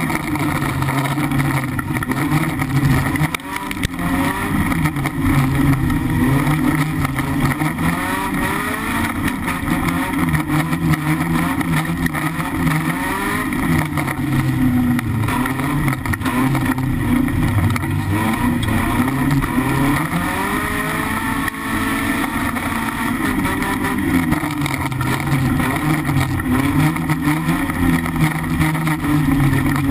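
BMW E36 318iS race car's four-cylinder engine heard from inside its stripped cabin, revving up and falling back again and again as it accelerates, lifts and shifts on the dirt track.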